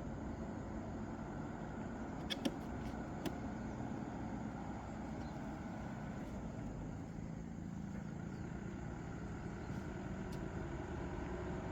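Engine running steadily, with a few sharp clicks or knocks a couple of seconds in and one more near the end.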